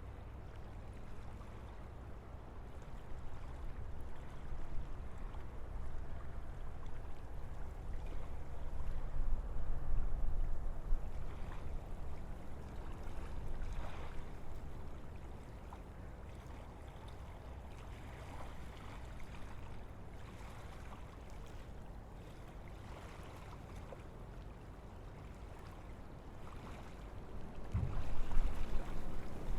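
Wind blowing through a forest as a steady low rumble with faint rustle above it, gusting louder about a third of the way in and again near the end.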